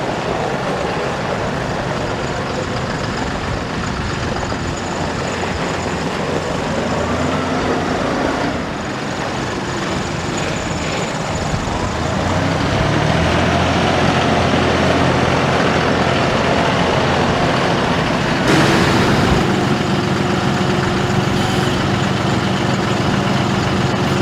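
John Deere 5075E tractor's three-cylinder turbo diesel engine running. About halfway through it steps up to a higher, louder engine speed and holds there, with a short burst of hiss a few seconds later.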